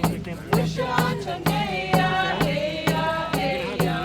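Voices singing a First Nations chant in vocables over a steady drum beat, about two beats a second.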